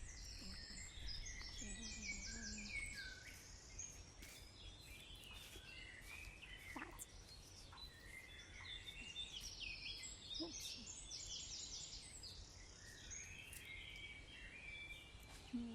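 Wild birds calling and singing, a mix of chirps and whistles, with a rapid run of high notes that comes twice, about six seconds apart. A couple of faint knocks sound partway through.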